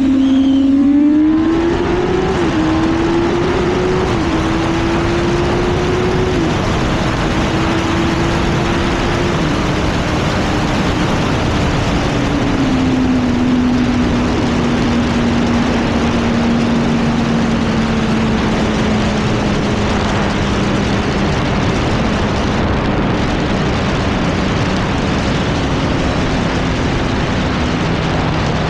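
Yamaha R1 sportbike's inline-four engine accelerating with three quick upshifts in the first seven seconds, its pitch climbing and dropping back at each shift. It then holds a high cruising speed and slowly eases off, under heavy wind rush.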